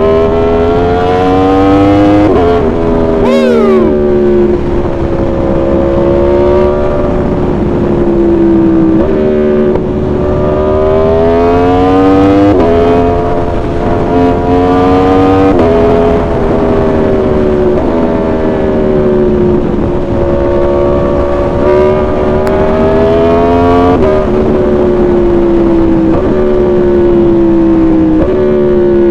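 Aprilia Tuono V4's 65-degree V4 engine through a shorty aftermarket exhaust, ridden hard. The revs climb and fall repeatedly, with several sudden steps in pitch, and there is a short burst of noise about three seconds in.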